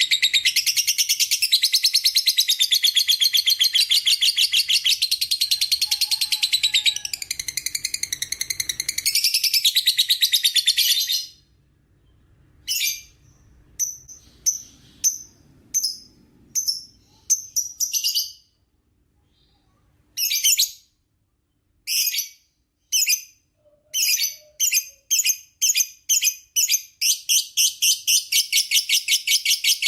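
Lovebird's long chattering trill (ngekek): a fast, high-pitched rattle that runs unbroken for about eleven seconds and stops abruptly. It then comes back as a string of short bursts with a brief pause, and near the end runs on unbroken again.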